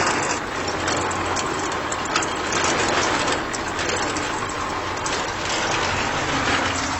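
A DIY mini tractor's small geared motor running steadily, with a low hum and a continuous fine rattle of clicking gears.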